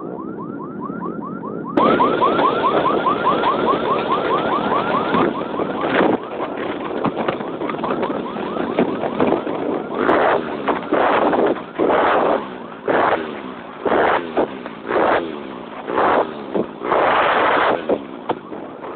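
A warbling siren-like tone repeating about five times a second for the first few seconds. Later, engines are revved in loud short bursts about once a second, each falling away.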